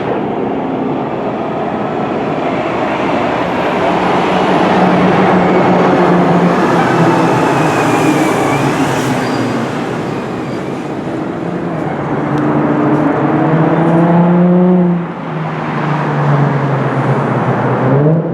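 Fire engine's diesel engine under load, accelerating with its pitch climbing. About two-thirds of the way through, the pitch drops at a gear change and then climbs again.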